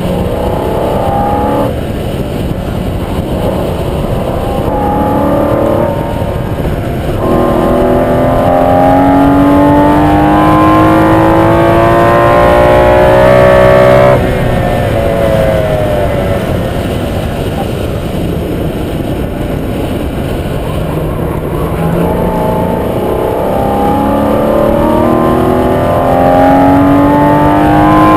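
Car engine heard from inside the car on a racetrack lap, accelerating hard with its pitch climbing. It upshifts about two and seven seconds in, pulls long to about halfway, then cuts off sharply as the throttle is lifted for braking. Near the end it climbs again under acceleration.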